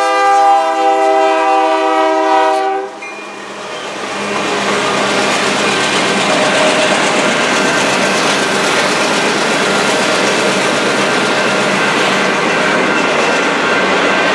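Diesel locomotive air horn sounding a blast that cuts off suddenly about three seconds in. Then the rumble and clatter of a long string of empty intermodal flatcars rolling past on steel wheels builds up over a second or two and runs on steadily.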